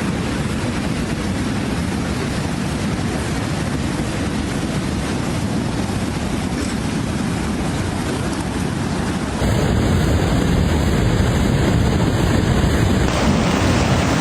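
Floodwater rushing, a steady loud noise with wind buffeting the microphone; it grows louder and rougher about nine seconds in.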